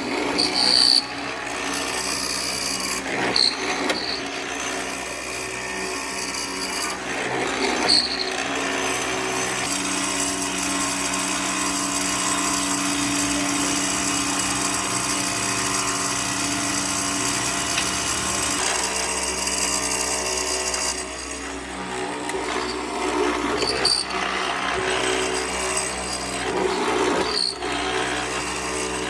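A power tool working wood: its motor runs steadily through the middle stretch over the noise of the tool on the wood, with a few sharp knocks here and there.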